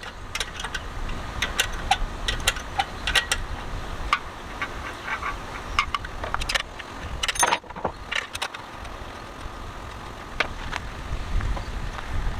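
Metal hand tools clicking and clinking irregularly against the engine's metal parts while its fasteners are worked loose, over a low steady rumble.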